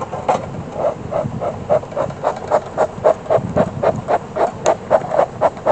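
Beekeeper's smoker bellows pumped rapidly, about four puffs a second, to get the smoker burning hot again.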